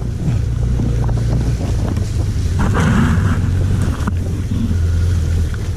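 Wind rushing over the microphone on a moving motorcycle, with the steady low hum of the 1991 Suzuki GSX1100F's engine beneath it. A brief louder gust of hiss comes about three seconds in.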